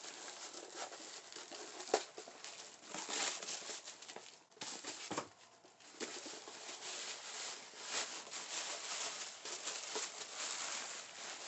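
Packaging crinkling and rustling as a wrapped package is opened by hand, with scattered sharper tears and clicks.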